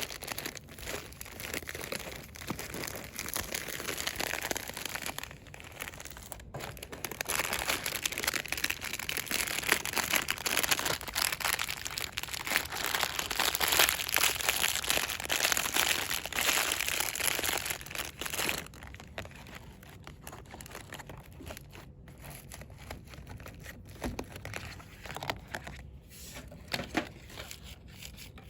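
Fast, vigorous crinkling and rustling of cosmetics packaging being handled. It is loudest through the middle, then drops about two-thirds of the way in to softer, scattered crackles.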